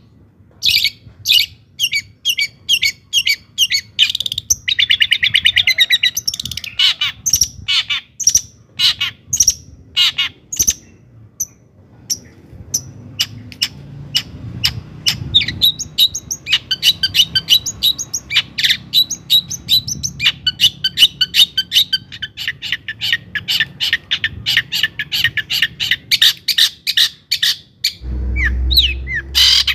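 Long-tailed shrike singing a fast, varied song of sharp chirps and harsh notes, with a buzzy rattling phrase a few seconds in and a long run of quick repeated notes later on. A low rumble comes in near the end.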